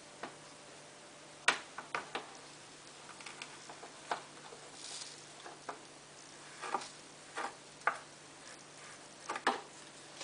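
Irregular light clicks and taps of plastic being handled while Vanish Oxy Action stain-remover powder is added to a washing machine's detergent drawer, with the loudest taps about a second and a half in and near the end.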